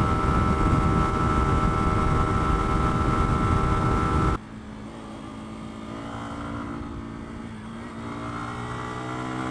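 Lexmoto Venom 125 motorcycle's single-cylinder engine running at speed under loud wind rush on the microphone. About four seconds in, the wind noise cuts off abruptly. The engine is then left clear, its pitch rising steadily as the bike gathers speed downhill.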